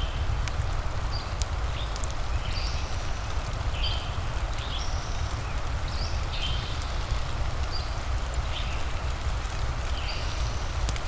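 Ambience of a crackling fire and rain: a steady low rumble and hiss with scattered sharp crackles. Short high chirping calls come every second or so throughout.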